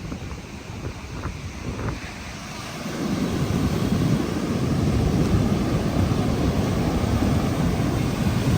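A large ocean wave breaking and its surf rushing up the beach, the rushing growing louder about three seconds in and then holding, with wind noise on the microphone.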